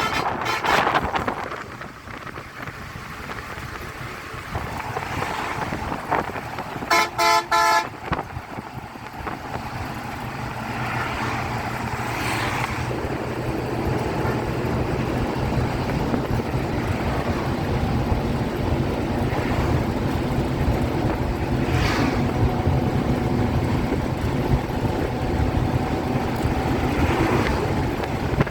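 Road traffic: a vehicle horn honks in a few quick blasts about seven seconds in, over steady engine and tyre noise that grows louder through the rest.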